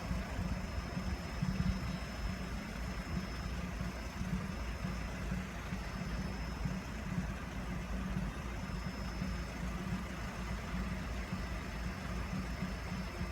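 Steady low rumble of a vehicle engine idling, with no rise or fall.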